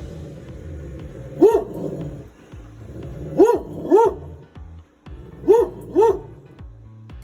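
A dog barking: five short barks, a single one and then two quick pairs.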